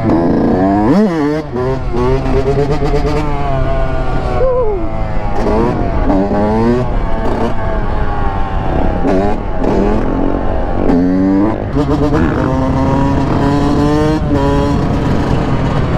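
Two-stroke 125 cc dirt bike engine (Yamaha YZ125) ridden hard, its note climbing and falling again and again as it is revved out and shifted. A steadier, lower engine note runs underneath.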